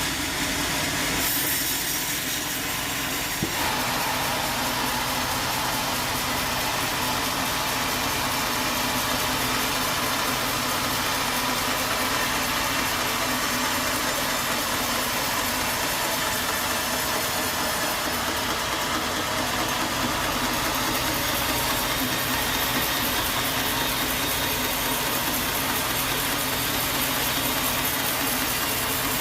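Sawmill engine running steadily, with a change in the sound about three and a half seconds in.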